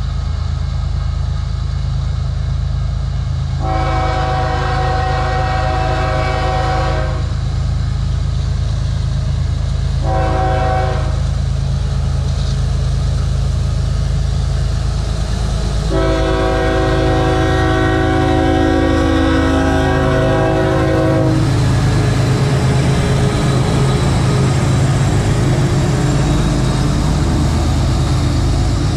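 Kansas City Southern diesel locomotives laboring up a grade with a heavy grain train, their engines a steady low rumble, while the multi-chime air horn sounds three times: a long blast, a short one, then a long one. Near the end the rumble grows as the locomotives and grain hopper cars roll past close by.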